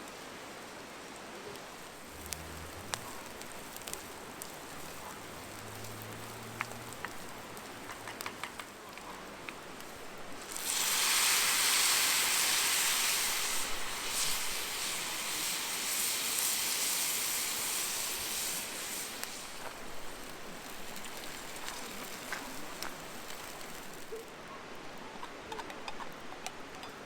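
Campfire crackling with scattered pops. About ten seconds in, a pan over the fire starts sizzling loudly, as food goes into hot oil, and dies back down after about eight seconds.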